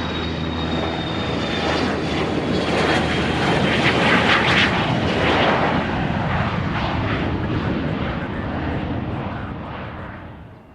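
Fixed-wing airplane passing by, its engine noise building to a peak about four seconds in and then fading away, with a high whine that slowly drops in pitch.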